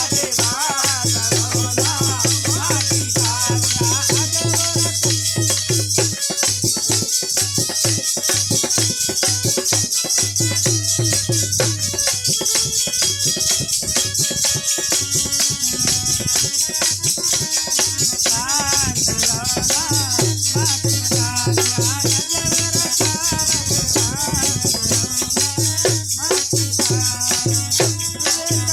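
Devotional bhajan music: a steady shaking rattle-type percussion with a low drum beat and a wavering melody line. The drum beat drops out for a stretch in the middle and returns.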